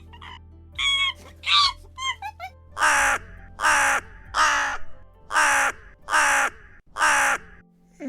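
A bird calling harshly: a few shorter calls and a quick stuttered run, then a series of six loud, harsh calls evenly spaced a little under a second apart. A steady low drone runs underneath.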